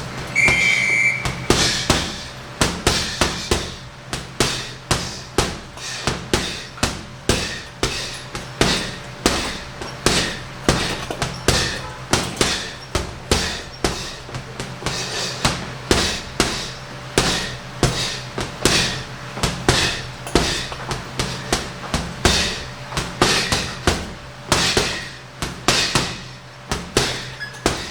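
Punches landing on a heavy bag, thudding in quick, irregular combinations of two to four blows, several a second. A short electronic beep sounds near the start.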